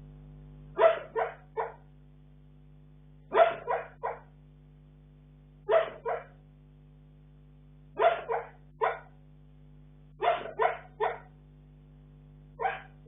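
Bull terrier barking in its sleep: short, sharp woofs in clusters of two or three, six clusters about two and a half seconds apart.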